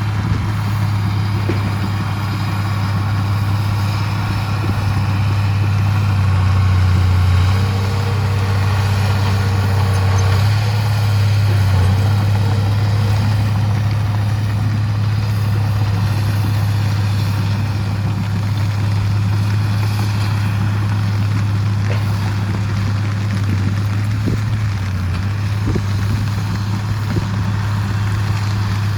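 Heavy diesel earthmoving machinery running steadily, a deep even engine hum with little change in speed.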